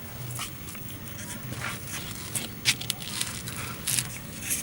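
Several short rustles and clicks of movement through wet grass, over a steady low hum.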